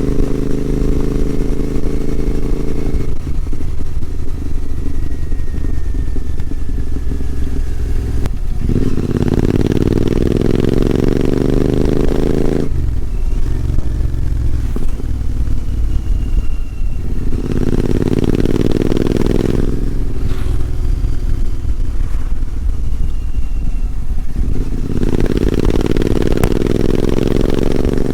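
Royal Enfield Continental GT650's 648 cc parallel-twin engine running with its exhaust note. It climbs steadily in pitch three times under throttle, with rougher stretches off the throttle in between.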